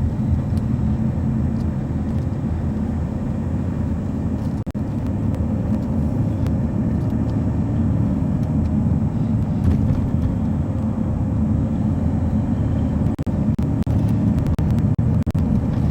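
Steady low drone of engine and road noise heard from inside a moving vehicle's cab.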